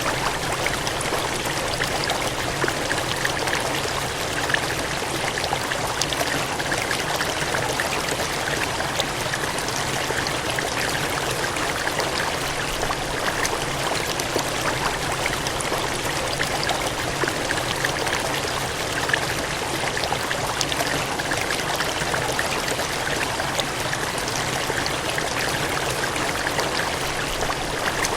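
Water gushing and splashing in a steady, unbroken rush, a dense hiss with a fine crackle of splashes and no change in force.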